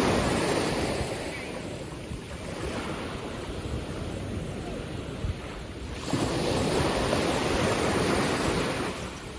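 Ocean waves breaking and washing up the shore: one surge easing off in the first couple of seconds, then another arriving suddenly about six seconds in and holding for a few seconds.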